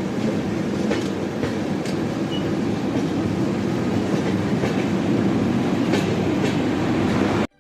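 Passenger train running on the track: a steady rumble with irregular sharp clicks from the wheels passing over rail joints. It cuts off abruptly near the end.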